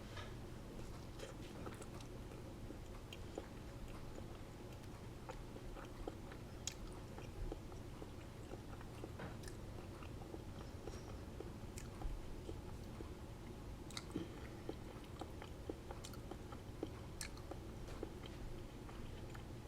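Close-up mouth sounds of a person biting and chewing a soft, cheese-filled black bean taco, with small wet clicks and smacks at irregular intervals over a steady low hum.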